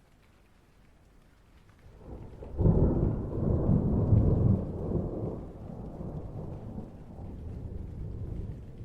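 A roll of thunder: a low rumble swells about two seconds in, stays loudest for a couple of seconds, then slowly fades away.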